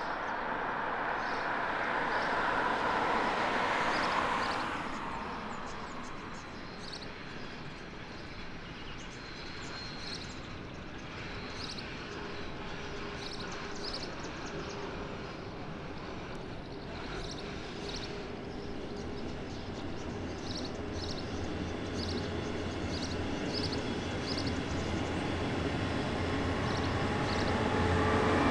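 Electric locomotive hauling a double-deck regional train approaching across a railway bridge: a low hum and rolling rumble that grow steadily louder over the last several seconds. Before it, the noise of another passing vehicle fades out about four seconds in.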